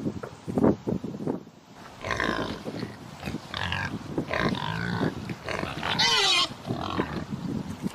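Pigs grunting for the first couple of seconds, then oinking and squealing, with one loud, shrill squeal about six seconds in.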